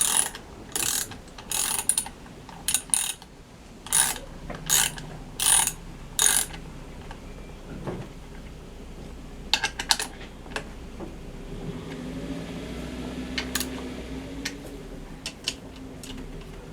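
Ratcheting clicks in a quick run of short strokes, about two a second, stopping about six seconds in, followed by a few scattered clicks and knocks.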